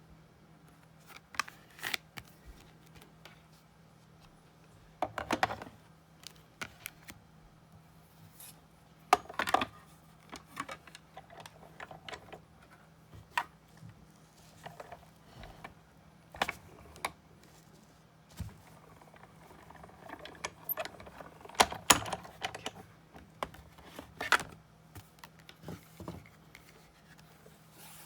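Irregular clicks, taps and short clatters of an embossing folder and cutting plates being handled and cranked through a hand-cranked Big Shot die-cutting and embossing machine, with a few louder clusters of knocks.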